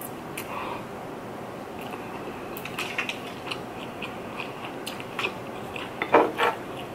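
Close-miked chewing of a mouthful of rice and sausage, with small wet mouth clicks. About six seconds in, a few louder scrapes come as a wooden spoon scoops more food from the tray.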